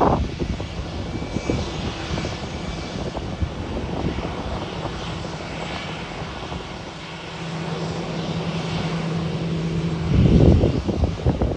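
Jet airliner engines running, a steady broad noise with a low hum joining in about two-thirds of the way through. Gusts of wind buffet the microphone near the end.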